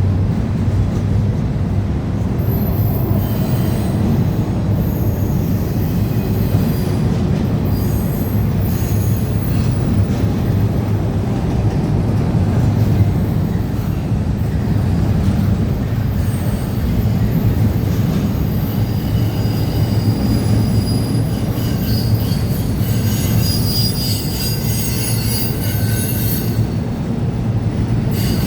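Freight train cars rolling past with a steady low rumble on the rails, and high-pitched wheel squeal coming and going, heaviest in the second half.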